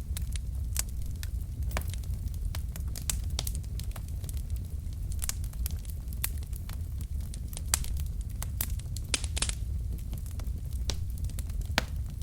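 Wood logs burning in a fireplace: a steady low rumble of the flames with irregular sharp crackles and pops, a few louder snaps among them.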